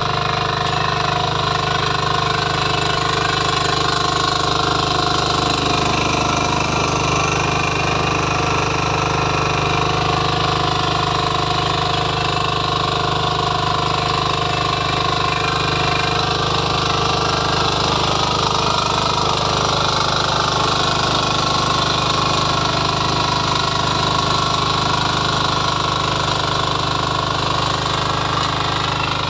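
Power weeder's small engine running steadily at a constant speed, with a fast, even pounding beat.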